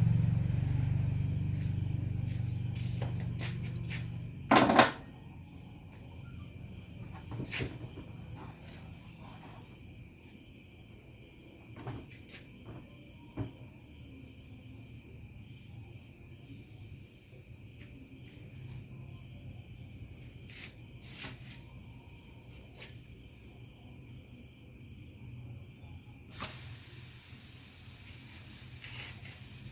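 Crickets chirping steadily, with a sharp knock about five seconds in and a few lighter clicks. Near the end a loud, steady hiss starts suddenly.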